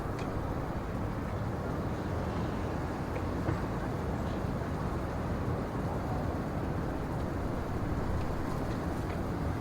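Steady low rumbling ambient noise with a few faint clicks.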